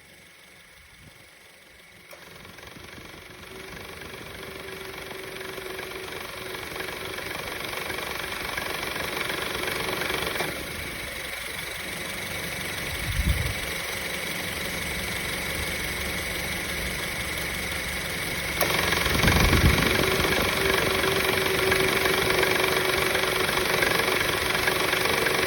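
2013 Honda Civic engine idling with a rattle that is still there after a new accessory belt and belt tensioner were fitted. It starts faint and grows steadily louder, with two brief low thumps about halfway through and near the two-thirds mark.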